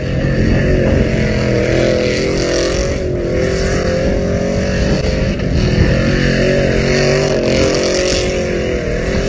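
Truck engine running through a loud aftermarket exhaust, a steady drone whose pitch wavers slightly up and down.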